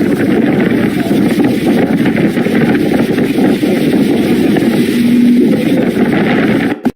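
Motorboat engine running steadily under way, heard through a loud rushing noise. It cuts off abruptly near the end.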